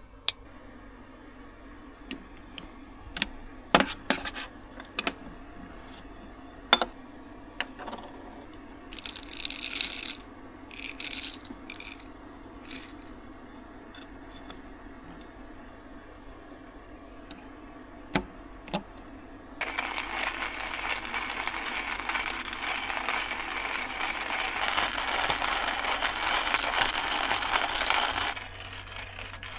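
Small objects being handled in a cramped space: scattered clicks and knocks, then a steady hiss for about nine seconds that cuts off suddenly near the end.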